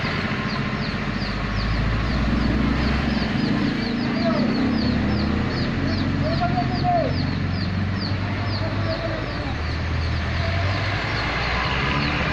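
Chickens calling a few times, with short arched calls, over a steady low engine rumble, while something gives a rapid run of short, high, falling chirps, about three a second.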